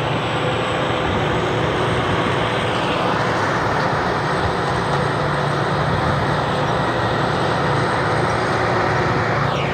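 Combine harvester with a Hino diesel engine running steadily under load, with a falling whine near the end.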